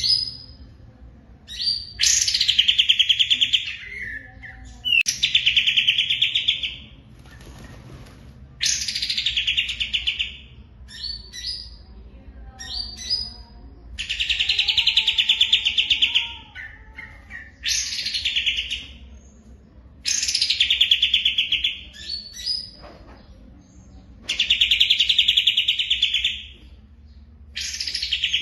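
Songbird singing a rapid, buzzing trill in bursts of about two seconds, about eight times, with softer chirps between the bursts.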